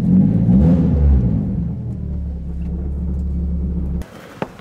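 Straight-piped Nissan 240SX (S13) engine running with a short rev in the first second, then a steady idle, switched off abruptly near the end.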